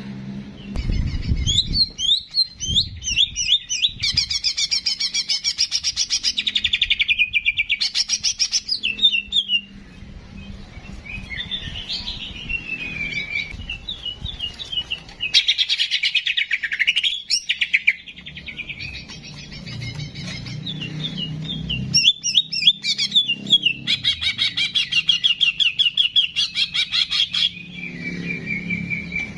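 Songbird singing a long, varied song of rapid chirps and fast buzzy trills, broken only by brief pauses, as used in a masteran tutoring track for cage birds.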